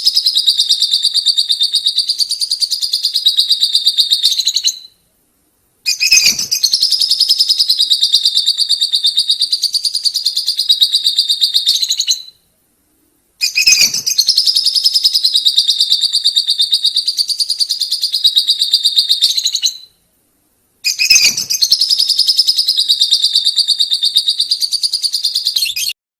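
Lovebirds giving their long 'ngekek' chatter: a fast, high-pitched rattling trill held for about six seconds at a time. It comes in four bouts, each cutting off abruptly, with about a second of silence between them.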